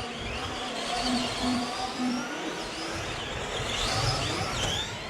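Several radio-controlled racing trucks running at once, their motors whining higher and lower as they accelerate and slow around the track, with many whines overlapping.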